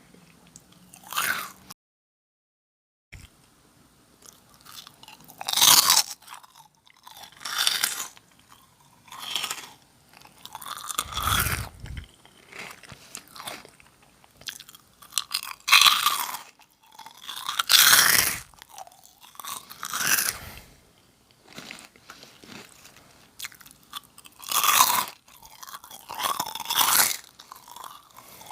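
Close-miked crunching and chewing of Nongshim Jagalchi, a crisp fried snack: a sharp crunchy bite or chew comes every couple of seconds. There is a brief total dropout about two seconds in and a dull low thump near the middle.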